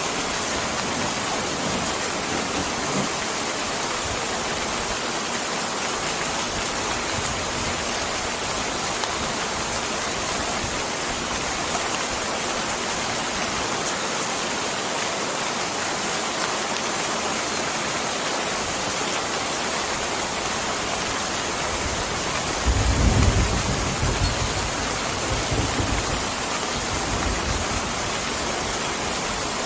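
Steady, heavy rain hiss. About three-quarters of the way in, a low roll of thunder rumbles for a second or two, then fainter rumbles follow.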